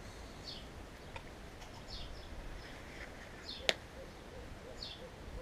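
A bird calling: a short, high, falling chirp repeated about every second and a half. A single sharp click about three and a half seconds in is the loudest sound.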